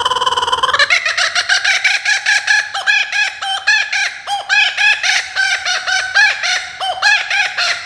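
A bird making a long run of rapid, repeated clucking calls, several a second, after a held whistle-like note that ends within the first second.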